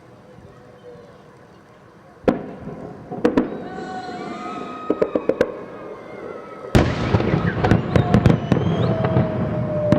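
Fireworks salute going off: after a quiet start, a sharp bang, a few more bangs and a quick run of crackling, then a bigger bang about two-thirds through that opens into continuous booming with repeated sharp cracks.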